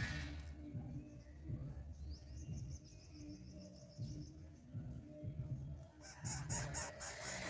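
Bird calls with a low rumble underneath, including a rapid high chatter about two to four seconds in. Near the end a different rhythmic sound comes in, likely background music.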